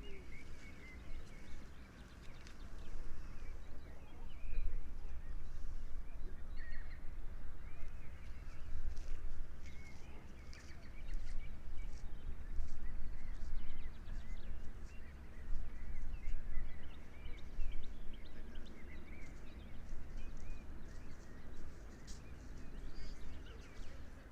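Wild birds chirping and calling in short, scattered phrases over a steady low rumble.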